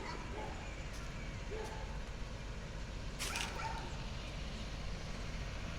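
A dog giving a few short, high-pitched cries in the first two seconds, then a louder sharp sound about three seconds in, over a steady low rumble.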